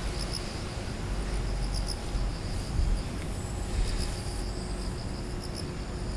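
Field crickets chirping in short, repeated trills, over a low rumble.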